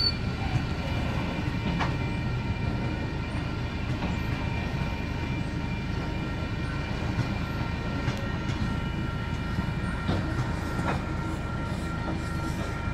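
Covered hopper wagons of a flour train rolling past: a steady rumble of steel wheels on rail, with a few sharp clicks as wheels cross rail joints and a faint steady high whine above it.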